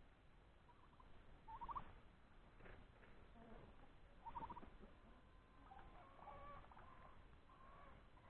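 Domestic turkeys calling faintly: two short, rapid rattling calls, about two seconds in and again past four seconds, then softer scattered calls.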